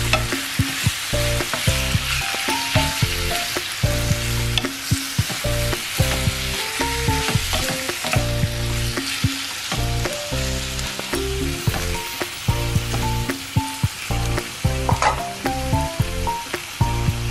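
Beef chunks and onions sizzling steadily as they fry in a frying pan, stirred with a wooden spatula. Soft background music with a bass line and a stepping melody runs underneath.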